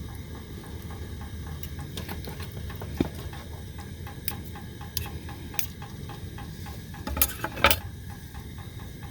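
Cooking utensil tapping and scraping in a pan of chicken being heated, a few scattered clicks and a louder clatter about seven and a half seconds in, over a steady low rumble.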